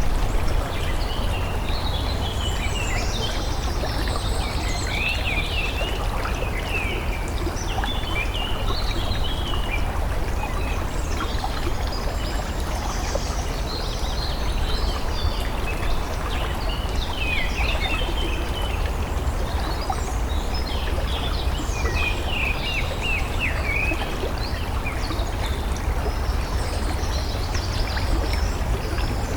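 Steady running water of a stream or brook, with small birds chirping in short, quick calls that come and go in clusters.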